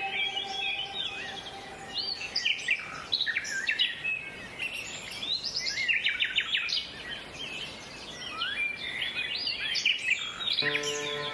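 Several small birds chirping in quick, overlapping calls. Soft music fades out at the start and comes back in near the end.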